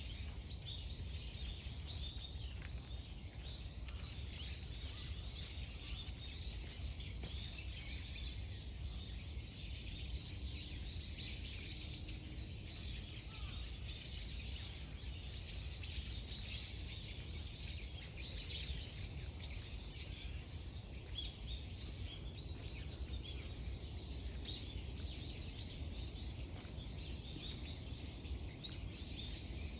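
Many small birds chirping and twittering at once in a dense, unbroken chorus, over a steady low rumble.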